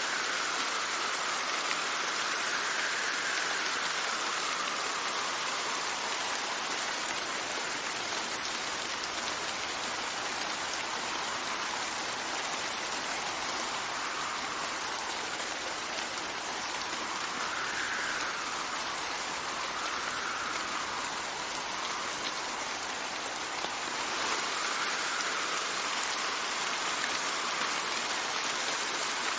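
Steady rain falling, with wind gusting through it in a soft whistle that rises and falls in pitch every few seconds.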